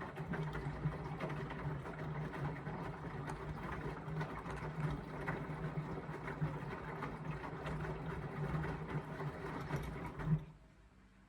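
Indesit washing machine turning its drum during the wash phase: a steady motor hum with many small knocks from the tumbling load. It stops abruptly near the end as the drum pauses between turns.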